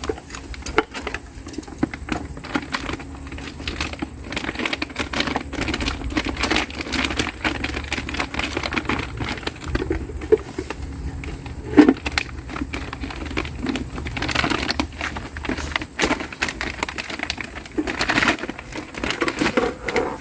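A bag of wild bird feed being handled and cut open with scissors: irregular rustling of the bag with small clicks and snips, and one sharper click about halfway through.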